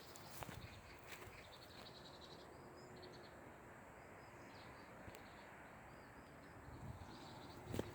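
Faint forest ambience with a bird giving a run of short, high chirping notes in the middle, and a few footsteps on the path near the start and near the end.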